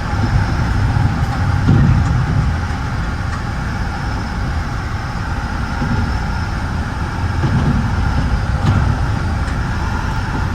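Metra bi-level commuter car in motion, heard from inside: a steady low rumble of wheels on rail with a constant hum above it, swelling slightly now and then.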